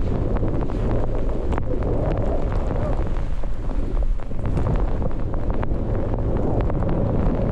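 Strong wind buffeting a GoPro's microphone, a steady low rushing with scattered short clicks and ticks through it.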